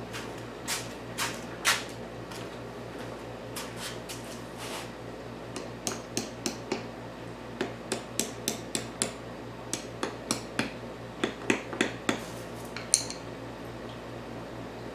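Light metal taps and clicks from hand tools working patterns out of a sand-casting mold, irregular and most frequent in the second half, over a steady low hum.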